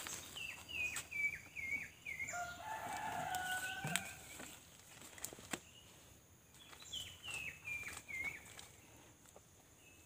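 Wild birdsong: a run of five or six short, high, falling whistled notes, repeated about seven seconds in, with a longer, lower drawn-out call between the runs. A few sharp clicks of handling come through as well.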